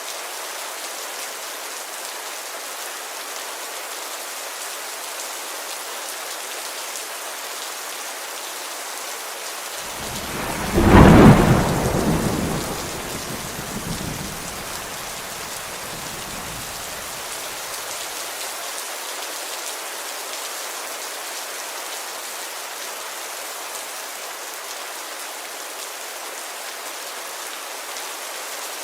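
Steady rain on a window, with a clap of thunder about ten seconds in that peaks sharply and then rumbles away over the next several seconds.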